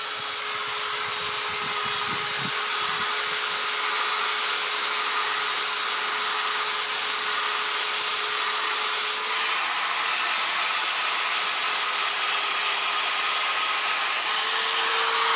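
Corded drill spinning a nylon abrasive wheel against an aluminum motorcycle lower fork tube: a steady motor whine under the hiss of the abrasive rubbing. The rubbing changes character about ten seconds in, and the motor's pitch rises near the end.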